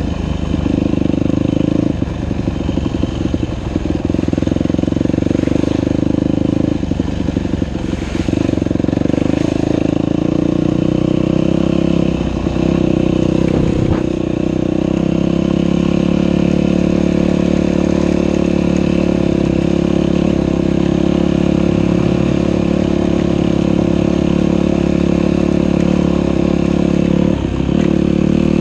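Dirt bike engine running on a trail ride, the throttle easing off and opening again several times in the first half, then holding a steady pitch for most of the rest, with a brief drop near the end.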